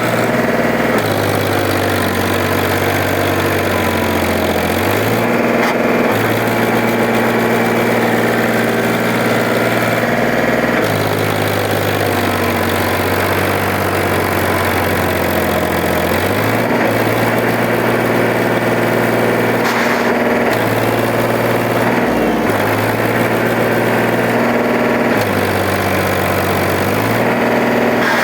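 Tractor's diesel engine running steadily and loud, its pitch dropping and rising again every few seconds as the revs change.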